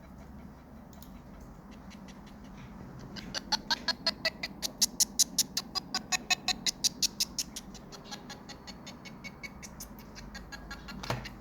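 A short, high-pitched sound fragment repeating rapidly, about five times a second, over a low steady hum. It starts about three seconds in, fades after a few seconds and starts again near the end. This is the looping-sound fault of Sony MDR-XB650BT Bluetooth headphones, where playback stutters over the same fragment.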